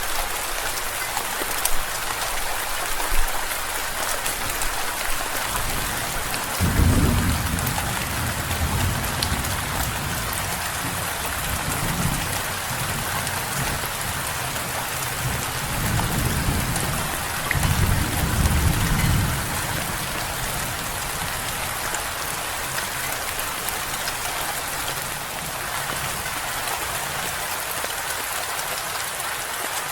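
Steady rain hissing throughout, with deep rolls of thunder: one about seven seconds in, and a longer, broken rumble from about a third to two thirds of the way through.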